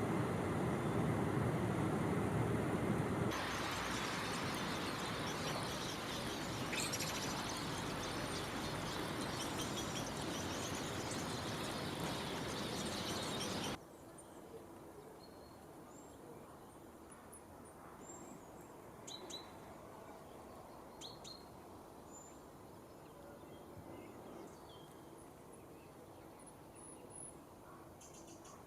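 Short, sharp calls of a great spotted woodpecker, a few scattered single notes, over a steady hiss of background noise that drops abruptly about halfway through.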